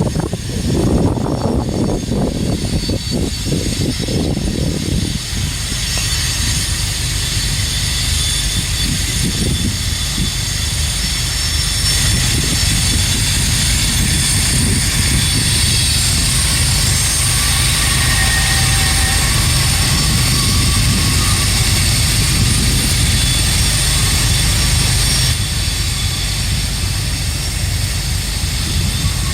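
Freight train rolling past: a steady low rumble of wheels on rail with a high hiss and a few faint high-pitched tones above it, and a heavier uneven throb in the first few seconds.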